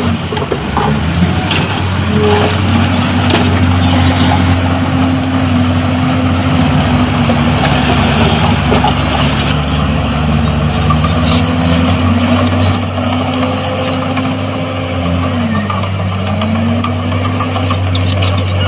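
Heavy diesel construction machinery engine running steadily under load. Its pitch dips briefly and comes back up about fifteen seconds in.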